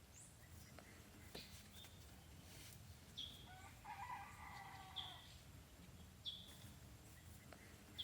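Faint rooster crowing once, about halfway through. Short high bird chirps come every second or so, and there are a few light taps.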